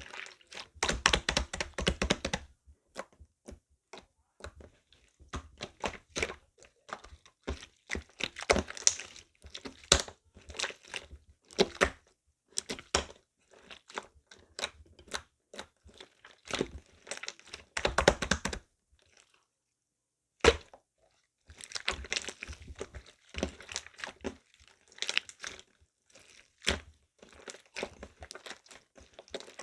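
Hands squeezing and kneading slime, making irregular bursts of crackling, popping clicks, with a short pause near the middle.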